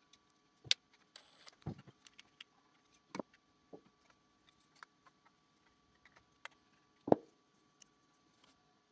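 Scattered light clicks and taps of plastic parts being handled on a robot vacuum, with a sharper tap under a second in and another about seven seconds in. A faint steady high tone runs underneath.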